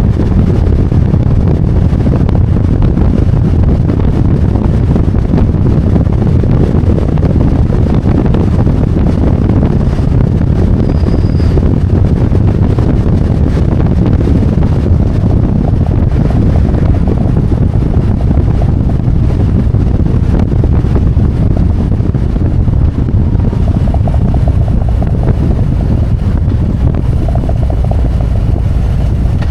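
Harley-Davidson Road Glide's V-twin engine running steadily under way, mixed with loud wind rush on the microphone.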